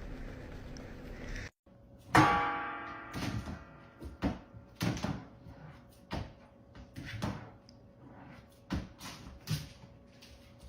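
A short pitched squeak or cry, then a run of irregular knocks and thuds, about one or two a second.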